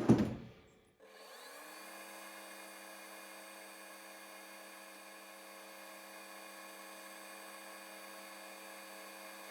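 Metal lathe starting up about a second in and running at steady speed, its motor and drive giving a humming whine of several steady tones while it spins the work for a boring pass.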